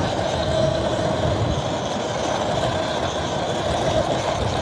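Electric dirt bike with a Sotion motor being ridden through sand: a steady motor whine over a rough low rumble.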